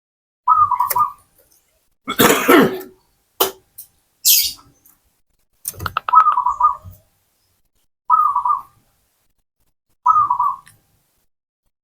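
Zebra dove (perkutut) cooing: four short, rolling coo phrases spaced about two seconds apart. About two seconds in there is a loud, harsh, noisy burst like a cough, followed by a sharp click and a brief high hiss.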